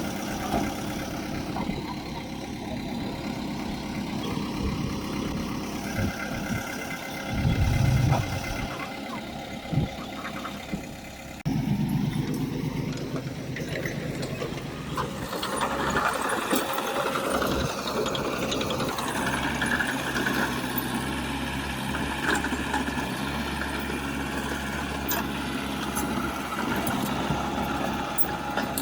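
Diesel engines of heavy earthmoving machinery (bulldozer and dump truck) running steadily, with a louder swell about eight seconds in. The engine sound changes abruptly about eleven seconds in.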